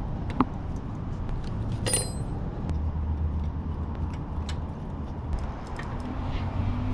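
Scattered metallic clicks and clinks of a wrench working a pit bike's brake adjusting nut, with one ringing clink about two seconds in. A low hum sits underneath through the middle.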